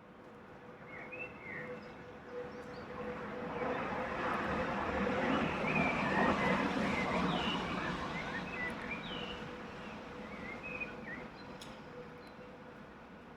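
Birds chirping while a vehicle passes: a broad rumbling noise swells to a peak about halfway through and fades away again.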